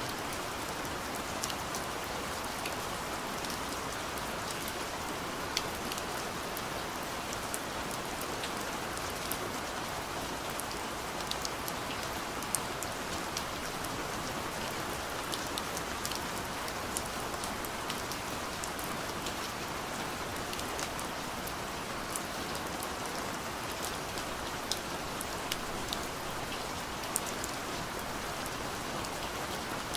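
Soft rain falling steadily on a window, a continuous even hiss with scattered sharp drop taps on the glass.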